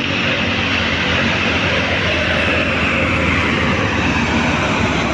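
Heavy diesel truck passing close by, its engine and tyres giving a steady, even rumble.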